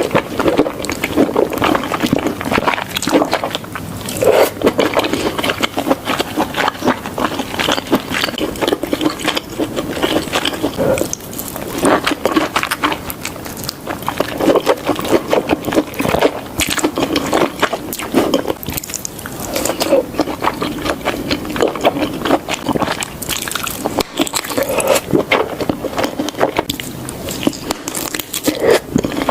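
Close-miked chewing and mouth sounds of someone eating cheesy food: continuous wet smacking and many small clicks, coming in louder clusters every few seconds.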